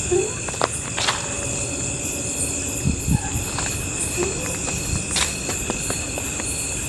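Crickets and other night insects trilling steadily in a dense chorus, several high pitches at once, with a few scattered small clicks and snaps.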